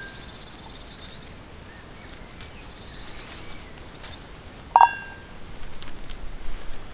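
Small birds chirping and trilling in the forest. About five seconds in comes a single sharp clink that rings briefly, like metal being struck.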